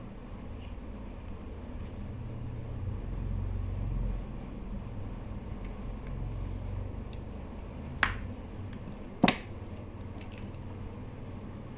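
Two sharp clicks about a second apart, over low handling noise: the hair trimmer's plastic parts being handled and worked apart by hand.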